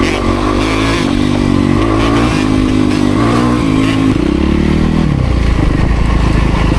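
Dirt bike engine pulling hard and shifting up through the gears several times, its pitch climbing then stepping back at each shift. About five seconds in it backs off to a low, steady rumble.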